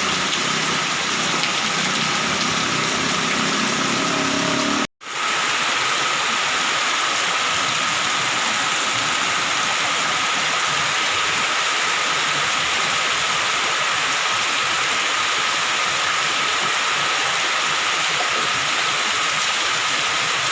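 Heavy rain falling, a steady dense hiss, broken by a brief dropout to silence about five seconds in.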